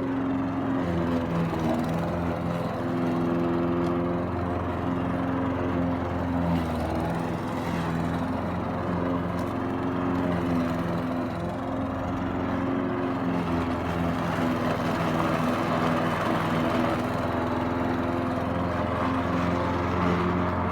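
Lawn mower engine running steadily, its pitch wavering slightly.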